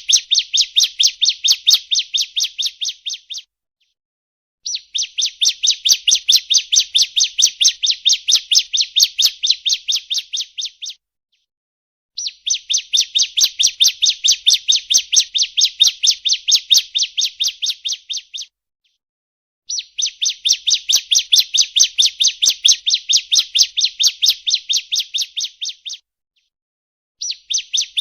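Bar-winged prinia (ciblek) song played as a lure call: long phrases of fast, evenly repeated high chirps, each about six seconds long, broken by short pauses and repeated over and over.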